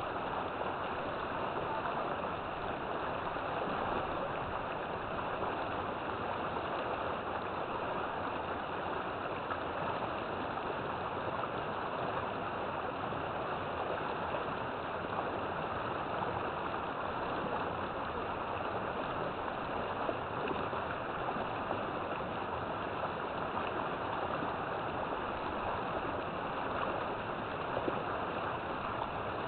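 River water flowing steadily, a constant rushing and gurgling over rocks.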